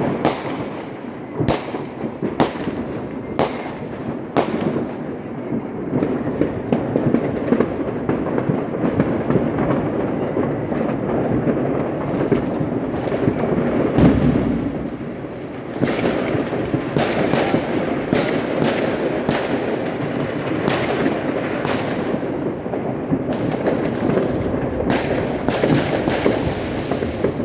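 Fireworks and firecrackers going off all around: irregular loud bangs, one every second or so, over continuous crackling, with the heaviest boom about 14 seconds in.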